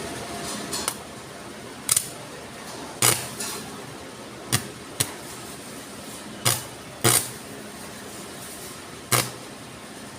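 About eight sharp metallic clicks and knocks at irregular intervals, with short gaps of a second or more between most of them, over a steady background hum: tools and metal parts being handled during bench repair work.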